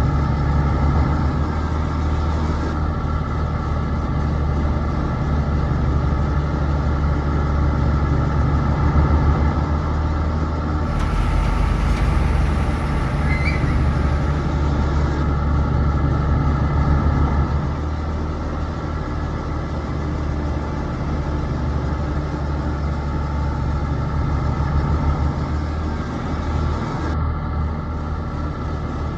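Steady low engine rumble of RC model heavy equipment running. About eleven seconds in, a hiss joins it for some four seconds.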